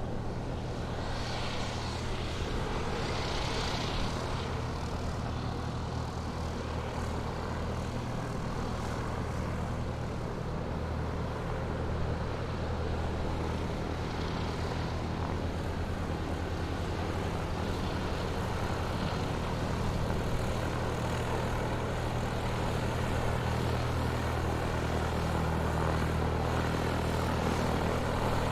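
Light propeller aircraft's piston engine running steadily in flight, a constant low drone with propeller noise that does not change.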